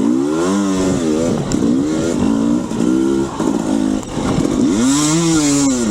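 Dirt bike engine revving in short bursts, the pitch rising and falling again and again as the rider works the throttle and clutch through tight single track. Near the end comes one longer rev that climbs and drops back.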